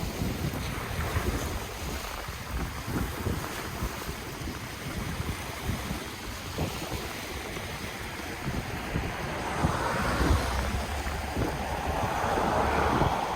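Ocean waves washing ashore, with wind buffeting the microphone in low rumbling gusts. A wave swells up louder about ten seconds in, and another builds toward the end.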